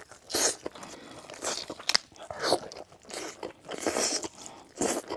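Close-miked crunching and chewing of crisp food, in a run of separate bites and chews, with one sharp crack about two seconds in.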